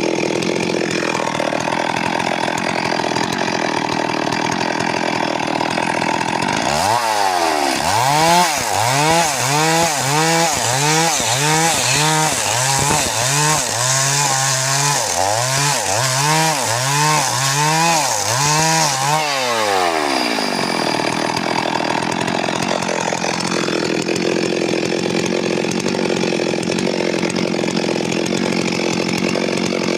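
Stihl MS 382 two-stroke chainsaw running. For about thirteen seconds in the middle its engine is revved up and down over and over, a little more than once a second, between stretches of steady running.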